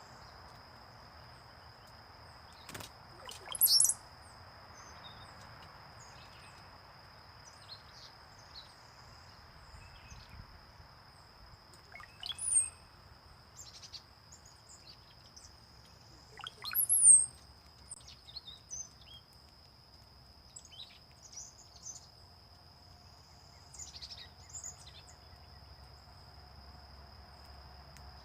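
Small birds calling, scattered short high chirps with three louder, sharply falling notes about four, twelve and seventeen seconds in.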